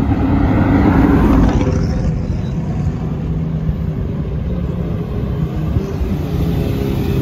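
Car engines: a loud surge, like a car passing or revving, in the first two seconds, then a steady engine rumble.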